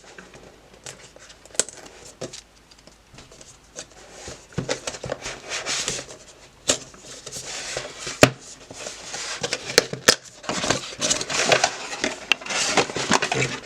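A cardboard product box being opened and its packaging handled: irregular rustling and scraping, with a few sharp clicks and taps.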